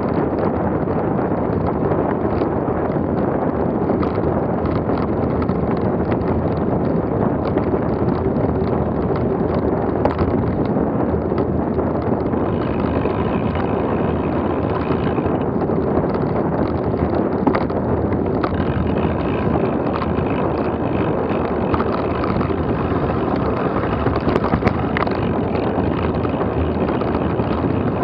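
Wind rushing over the microphone during a fast downhill trail descent, with the steady rumble and small knocks of rough ground underneath. Faint high tones come in twice along the way.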